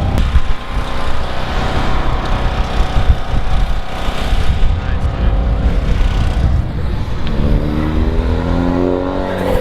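Car engine running under a heavy low rumble, rising steadily in pitch from about seven seconds in as it revs up.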